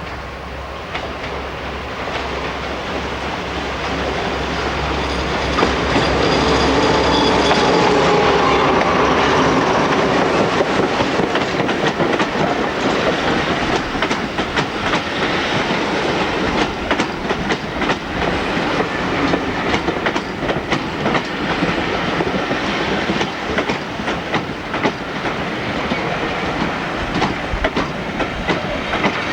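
A diesel train passing. It grows louder over the first several seconds, then its wheels clatter rhythmically over the rail joints as the rest of the train goes by.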